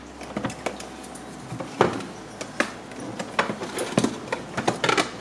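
Items such as chocolate packets and boxes being handled on a fridge shelf: a few irregular light clicks and knocks.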